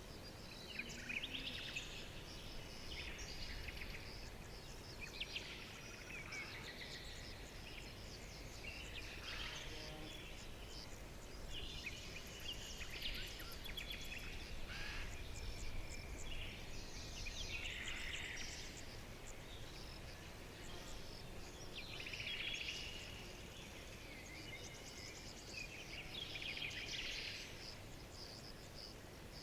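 Several small birds chirping and twittering in overlapping bursts, over a faint low background hum.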